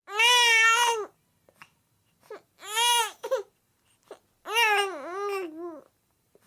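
Human crying, high-pitched like a young child's: three drawn-out wailing sobs of about a second each, with short gasping breaths between them; the last wail wavers down in pitch twice.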